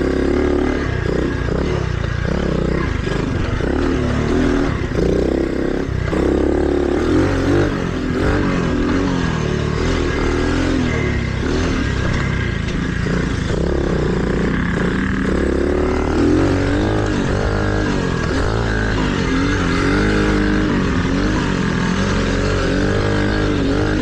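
Mini dirt bike engine running on a trail ride, its pitch rising and falling continually as the throttle is opened and closed.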